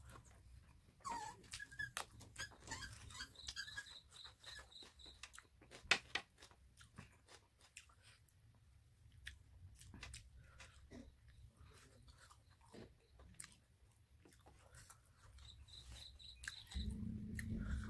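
Close-up mouth eating sounds: wet chewing and lip smacking of rice and chicken curry eaten by hand, with scattered clicks. A steady low hum comes in near the end.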